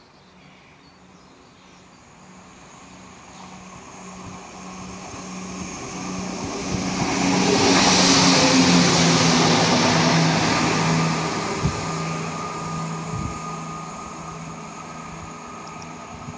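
Greater Anglia electric intercity train passing at speed. Its rumble and rush swell to a peak about halfway through, with a hum that drops in pitch as it goes by, then fade.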